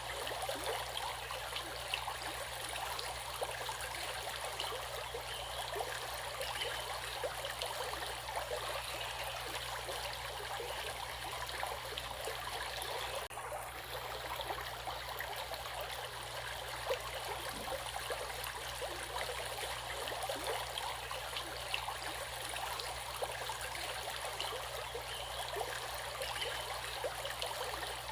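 Stream water flowing steadily, a continuous babbling full of small quick gurgles and splashes.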